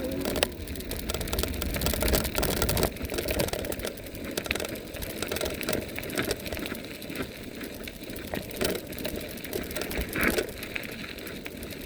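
Riding an electric bike on a road: wind rumbling on the microphone and tyre noise, with a fast clicking rattle from the bike.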